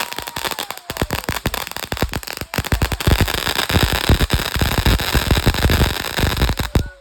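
Firework going off in a dense, rapid crackle of irregular pops with a hiss behind them, stopping abruptly near the end.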